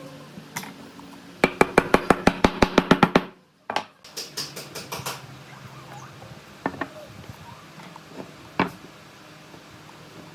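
A fast run of sharp knocks, about six a second, that cuts off suddenly. A second shorter run and a few single clicks follow, over a faint steady hum.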